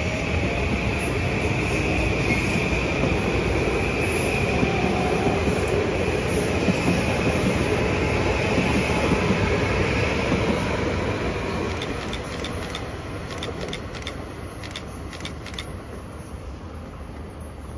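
Metro-North M8 electric multiple-unit train running past on the rails with a steady rumble, which fades from about eleven seconds in as the train pulls away. A run of sharp clicks comes near the end.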